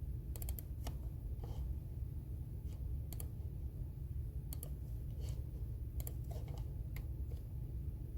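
Computer keyboard typing: scattered, irregular keystrokes with short pauses between them, over a steady low rumble.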